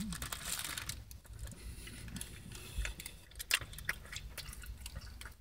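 A person chewing a mouthful of chicken sandwich close to the microphone: faint, scattered wet mouth clicks and smacks.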